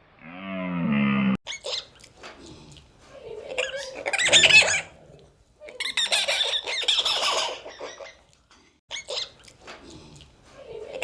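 Animal calls: a short pitched call that cuts off abruptly about a second in, then several harsh, high squawks and screeches in separate bursts.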